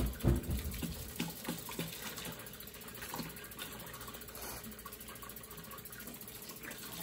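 Arepas frying in a pan of oil: a steady sizzle with scattered small crackles and pops. A loud thump right at the start.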